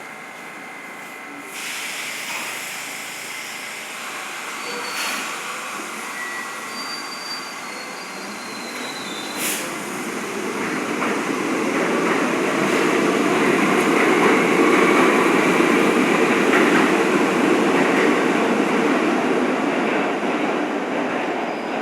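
New York City Subway G train running in the station, its rumble building steadily to a peak about two-thirds of the way through. Brief high wheel squeals and a couple of sharp clicks come in the first ten seconds.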